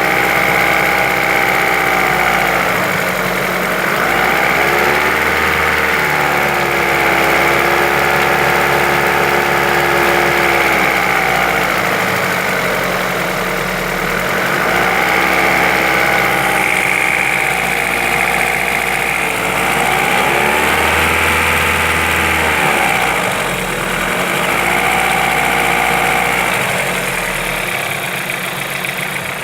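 Vehicle engine being revved up, held at raised revs for a few seconds and let back down, about five times over, as someone checks it for a suspected knock.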